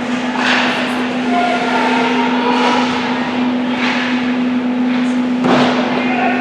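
Ice hockey game in an arena: skates scraping and carving on the ice in several short swishes, over a steady hum, with faint distant shouts.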